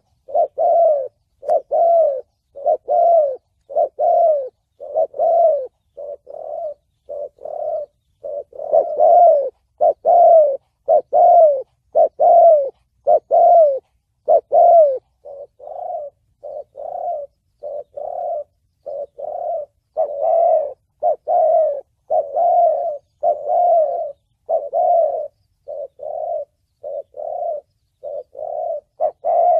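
Spotted dove cooing in the 'thổ bầu' call style: an unbroken run of short coos, about two a second, each note rising and falling slightly in pitch, some louder than others.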